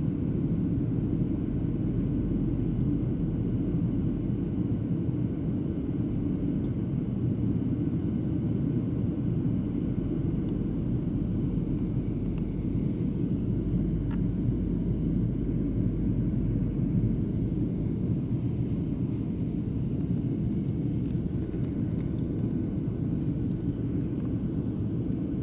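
Airliner cabin noise in flight: a steady low rumble of the jet engines and airflow, heard from inside the passenger cabin.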